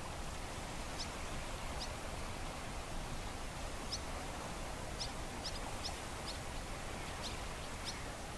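About ten short, high bird chirps scattered over several seconds, starting about a second in, over the steady hiss of a calm sea.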